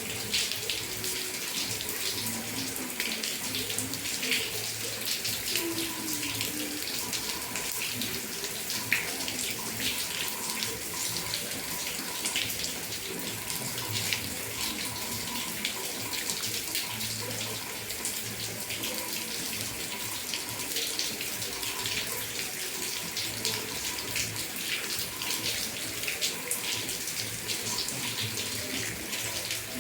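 Steady rain falling, with many small drop impacts heard throughout.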